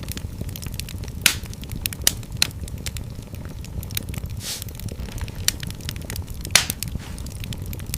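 Fireplace fire crackling over a steady low rumble of the flames, with several sharper, louder pops scattered through.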